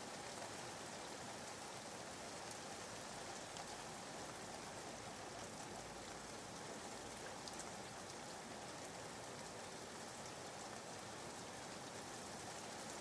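Soft, steady rain falling on a surface, used as a background white-noise track.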